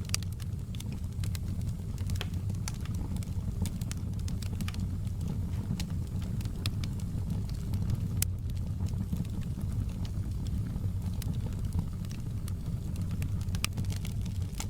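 Wood fire burning in a fireplace: irregular sharp crackles and pops scattered over a steady low rumble of the flames.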